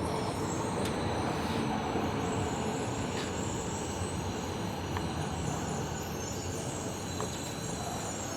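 Tobu 70000 series commuter train running through a subway tunnel, heard from inside the passenger car: a steady rumble of wheels on rail with a thin high-pitched whine over it, growing slightly quieter toward the end.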